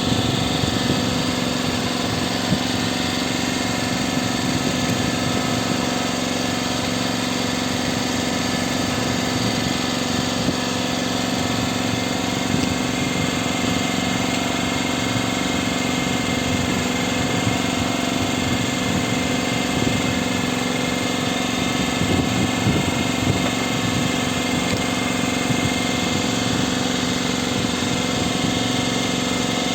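Fishing boat's engine running steadily at an even speed, with no change in pitch.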